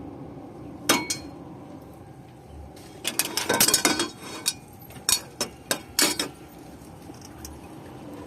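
Metal clinking and clattering, as of hand tools and a hose clamp being handled while fitting an air-filter coupler: two sharp clinks about a second in, a busy cluster from about three seconds, then a few single clinks.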